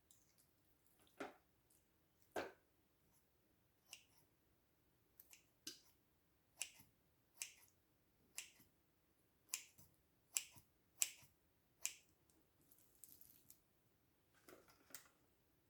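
A series of about a dozen sharp clicks or snaps at uneven intervals, loudest a little past the middle, with quiet between them.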